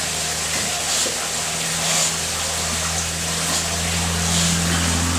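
A pool pump hums steadily under an even wash of moving water, with a second low tone joining near the end.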